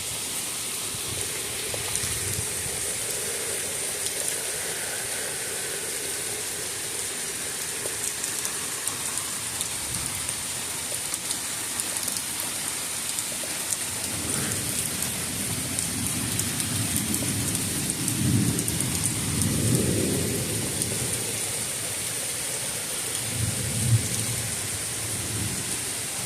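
Steady rain falling from a summer thunderstorm, with thunder rumbling in the second half: a long rolling rumble and then a shorter one near the end.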